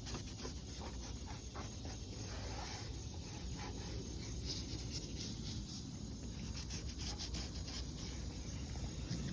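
2000-grit sandpaper rubbing over a plastic headlight lens in repeated back-and-forth strokes, sanding down the old surface.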